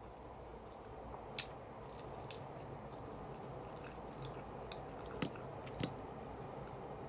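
A person chewing and biting food close to the microphone, with a few short crunchy clicks over a steady low background.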